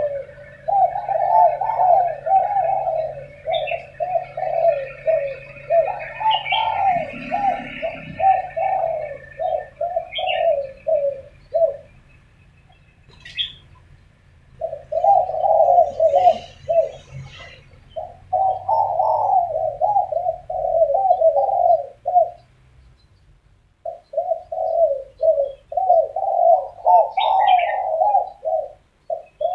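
Spotted doves cooing back and forth in long runs of quick, repeated coos, with two short pauses. A few faint higher chirps from small birds come in over them.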